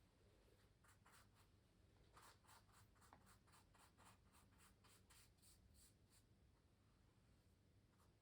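Faint, quick scratchy strokes of a drawing or painting tool on canvas, about three a second through the middle of the stretch, with a few scattered strokes before and after.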